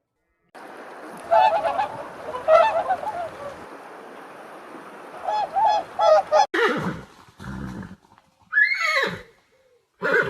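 Animal calls: a run of short repeated pitched calls over a steady background hiss, then, after an abrupt cut about six and a half seconds in, a few separate louder calls, one of them falling in pitch.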